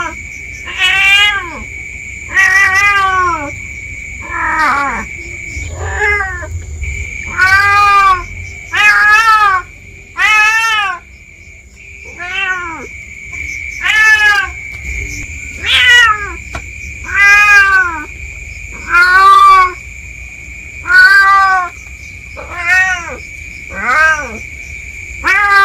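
Domestic cat meowing loudly and repeatedly, one drawn-out meow about every one and a half seconds, over a steady high-pitched whine in the background.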